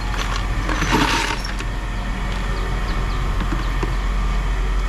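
A vehicle engine idling steadily, with a short noisy burst about a second in and a few light clinks.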